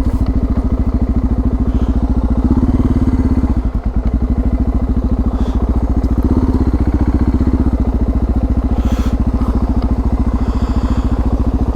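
Suzuki DR650's single-cylinder four-stroke engine running at low revs with an even, steady thump of firing pulses, swelling briefly twice, about three and about seven seconds in.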